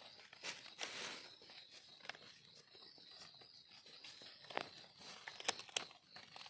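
Dry leaf litter crackling and rustling in short, irregular bursts, with the sharpest snaps near the end, over a steady high-pitched drone of forest insects.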